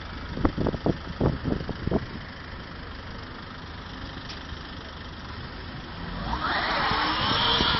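Car engine idling with a steady low rumble, with several low knocks in the first two seconds. About six seconds in, a louder rushing hiss rises and holds.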